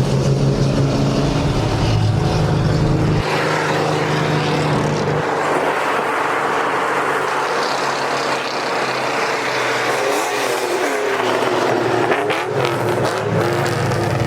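Car engines idling with a deep, steady drone. About three seconds in this gives way to a long rush of engine noise as cars accelerate hard.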